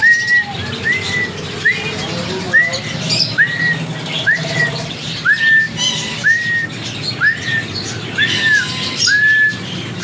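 Caged aviary birds calling: one bird repeats a short rising whistled call about once a second, with scattered chirps from other birds between.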